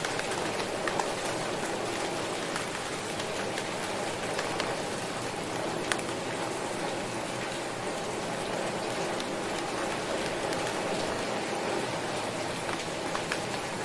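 Steady rain falling, with scattered sharper drop ticks over an even hiss.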